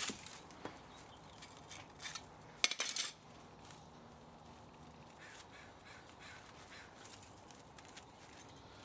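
A few short metallic clicks and clinks from motor parts being handled, the loudest cluster about three seconds in, then only faint ticks.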